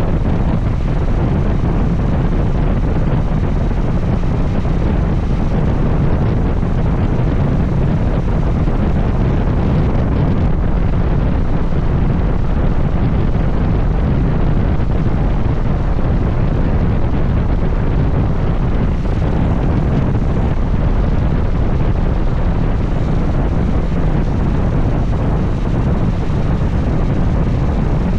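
Steady wind rush on an action camera's microphone while riding a motorcycle at speed, with engine and road noise blended in beneath. The noise is loud and even, with no change.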